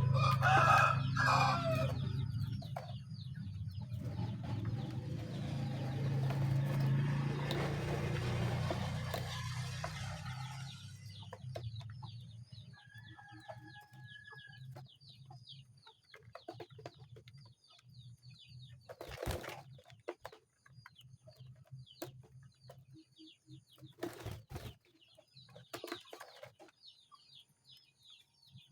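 A rooster crowing in the first couple of seconds over a low steady hum that fades out by about ten seconds in. Later come faint, short high chirps and two sharp knocks.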